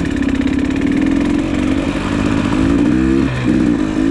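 Two-stroke GasGas EC300 dirt bike engine running under way, its pitch holding steady, then climbing, dropping briefly about three seconds in and climbing again.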